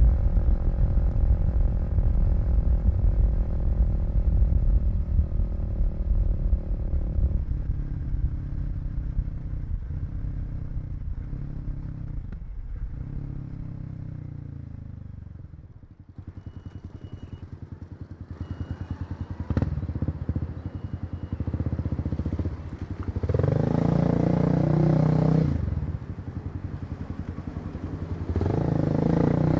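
Kawasaki KLX250's single-cylinder four-stroke engine running under the rider. Its note falls away as the bike slows to an idle about halfway through, it ticks over with a steady low pulse, then it revs up twice near the end as the bike pulls away.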